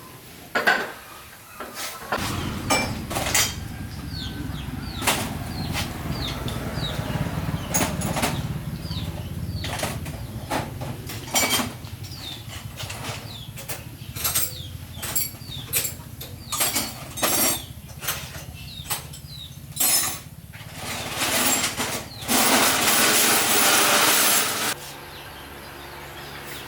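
Metal clanking and knocking, as of tools and metal parts being handled, over a steady low hum. Near the end a loud rushing noise lasts about two seconds. Birds chirp at times.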